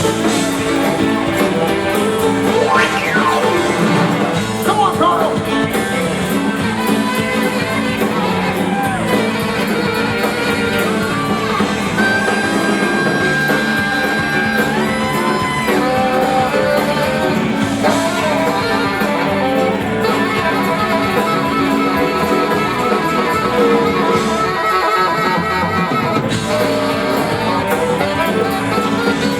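Live blues-rock band playing an instrumental break, an electric lead guitar soloing with bent and held notes over bass and drums.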